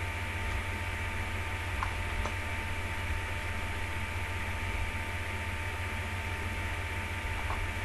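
Steady low electrical hum under an even hiss, with a faint steady whine and a few faint ticks: the background noise of the recording, mains hum and static.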